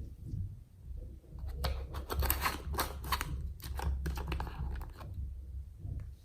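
Hands kneading and stretching slime, with a dense run of sticky crackles and pops from about a second and a half to four and a half seconds in, over a low handling rumble.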